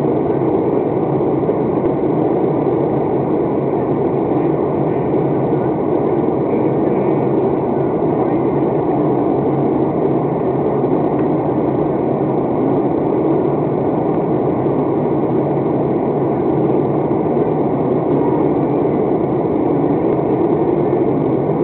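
Steady drone of an airplane cabin in flight: the engines and the rush of air past the fuselage, even and unbroken.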